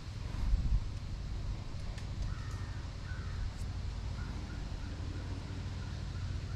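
A bird calling faintly, a run of short repeated calls, over a steady low rumble.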